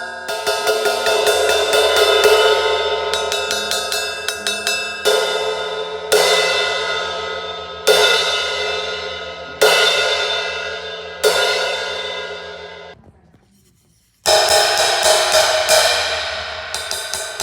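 An 18-inch crash cymbal struck with a stick. First comes a run of quick repeated taps, then five single crashes about a second and a half apart, each left to ring and fade. The sound dies away to near silence around the thirteenth second, and quick repeated strikes start again about a second later.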